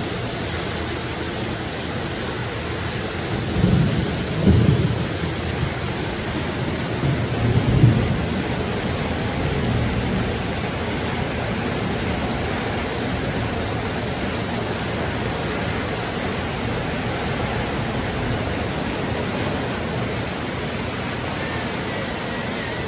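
Heavy rain pouring steadily, with low rumbles of thunder about four and eight seconds in.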